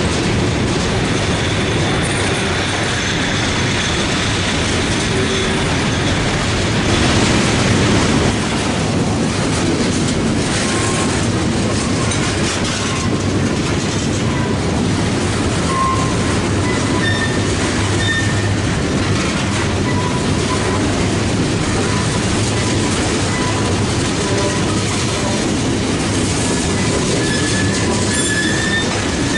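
Loaded coke and coal hopper cars of a freight train rolling past, their steel wheels making a steady, loud rumble on the rail. Short, high wheel squeals come and go in the second half.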